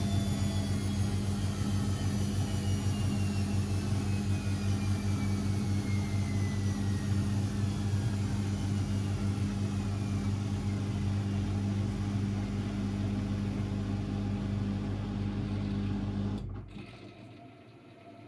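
Constructa Energy 1000s washing machine slowing down: its motor whine falls steadily in pitch over a steady hum. About sixteen seconds in, the sound cuts off abruptly and only a faint noise is left.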